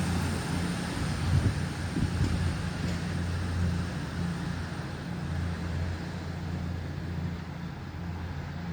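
Diesel passenger train pulling away from the station, its engines running with a steady low hum that grows a little louder about a second or two in.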